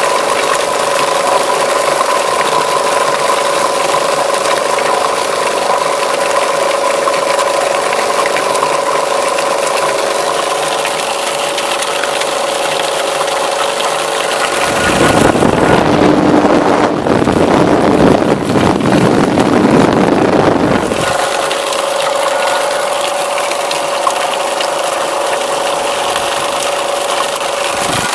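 Homemade apple crusher driven by a Zarya 2M washing-machine electric motor, running steadily with a whine. About halfway through, a louder, rougher noise takes over for roughly six seconds, then the steady whine returns.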